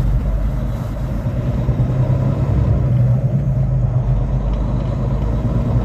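Semi truck's diesel engine and road noise heard from inside the cab while driving: a steady, loud low rumble.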